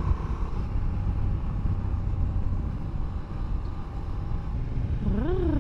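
Motorcycle engine running under way, a steady low rumble with wind noise on the microphone. Near the end, a short vocal exclamation rises and falls over it.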